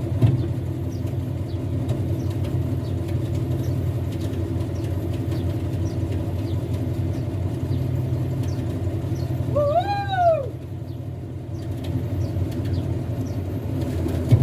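Heavy truck engine running steadily. About ten seconds in, a short pitched call rises and falls once over it.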